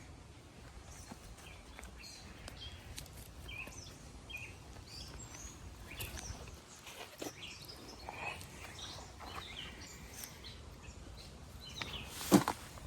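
Birds chirping in short, scattered calls over steady outdoor background noise, with one sharp knock near the end.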